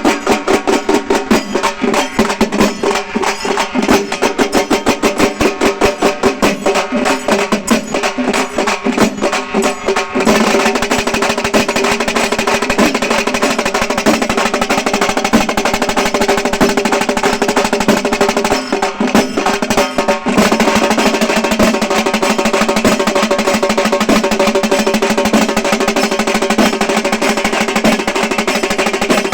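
A halgi group, Maharashtrian frame drums beaten with sticks, playing fast dense rolls. The strokes turn into an almost continuous roll about ten seconds in, with a short break near twenty seconds.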